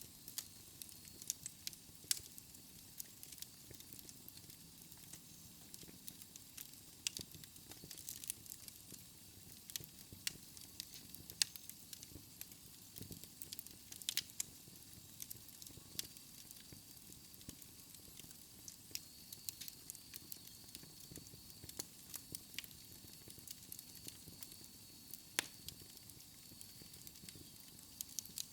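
Wood fire burning in a fireplace: a low steady hiss with irregular small crackles and pops scattered throughout.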